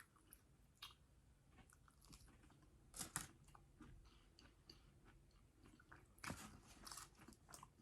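Faint chewing of food close to the microphone, with a few brief sharper mouth clicks, strongest about three and six seconds in.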